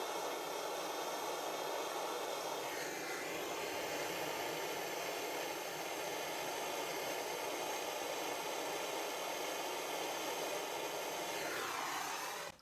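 Gas blow lamp burning with a steady hiss, heating the work for silver soldering; it cuts off suddenly near the end.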